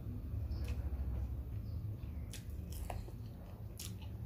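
Close-up chewing of a mouthful of food, with a few short, sharp crunches over a steady low hum.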